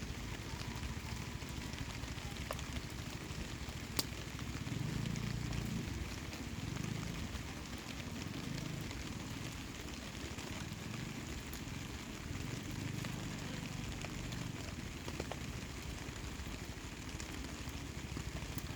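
Rain pattering steadily, mixed with the crackle of a wood campfire, with one sharp pop about four seconds in.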